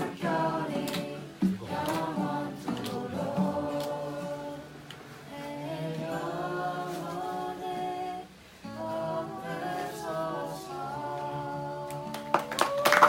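A small group of voices singing a hymn together in Korean, ending on a long held final chord. Cheering and clapping break in just as the singing stops.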